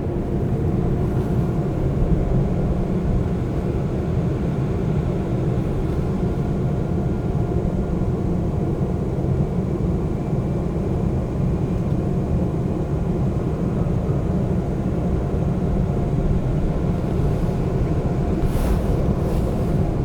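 Seoul subway train running between stations: a steady low rumble of wheels on rail and traction motors, with a faint brief high hiss near the end.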